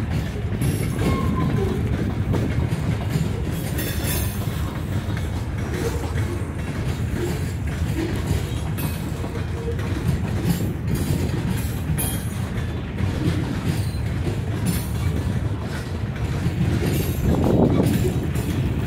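Norfolk Southern freight train rolling past: a steady rumble of cars with the wheels clicking over rail joints, swelling a little near the end.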